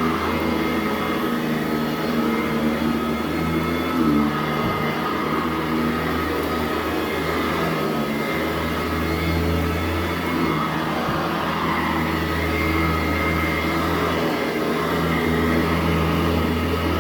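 Sanitaire SC899 commercial upright vacuum cleaner running steadily over carpet, a constant motor whine over a low hum that swells and eases as it is pushed back and forth, with a brief bump about four seconds in.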